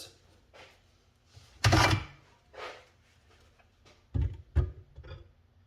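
Handling noises: a brief loud rustle or scrape about two seconds in, a softer one after it, then two low thumps a little after four seconds.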